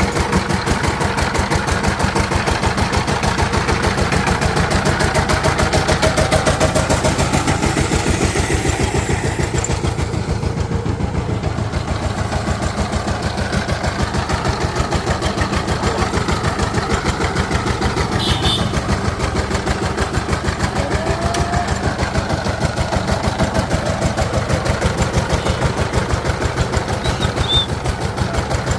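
Diesel engine running steadily, a fast, even beat of firing strokes with no change in speed.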